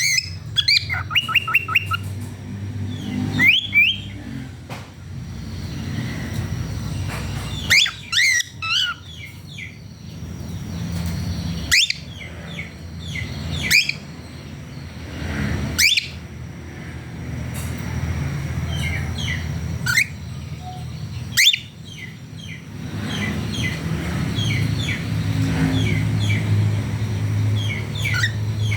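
Male cockatiels chirping and whistling, with runs of quick chirps and a sharp loud call every few seconds, over a steady low rumble.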